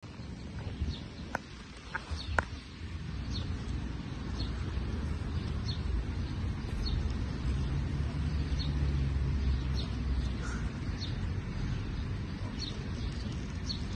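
A bird calling over and over with short, high, falling chirps about once a second, over a steady low rumble. A few sharp clicks sound near the start.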